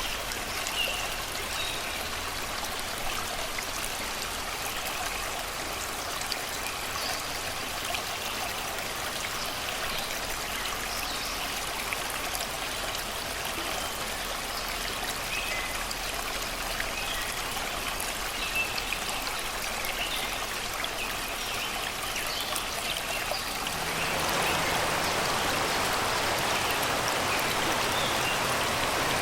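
Shallow river water rushing and babbling over rocks, a steady noise with faint bird chirps above it. The water gets louder and fuller about 24 seconds in.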